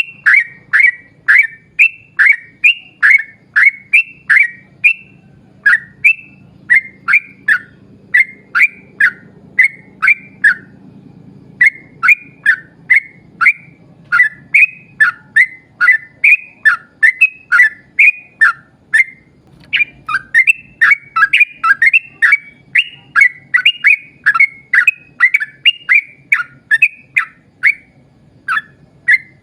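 Yellow-vented bulbul (trucuk) singing a long run of short, falling whistled notes, two to three a second, broken by a few short pauses of about a second.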